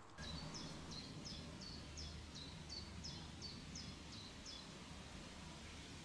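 A small bird singing a quick series of about a dozen short, high, down-slurred notes, roughly three a second, breaking off about four and a half seconds in, over faint low background noise.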